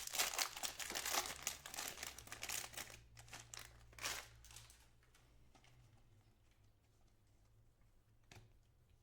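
A foil trading-card pack being torn open, its wrapper crinkling and crackling for about five seconds. Then fainter handling, with a single click about eight seconds in.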